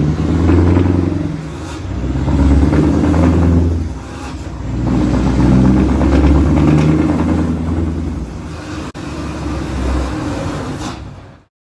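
Scania R520 V8 truck engine with an open straight-pipe exhaust, heard from on board, revving up and dropping back several times as it pulls away, then running steadier before the sound cuts off near the end.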